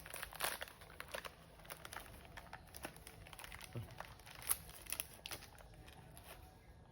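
Soft crinkling and rustling with scattered small clicks as a baby monkey handles and eats its food.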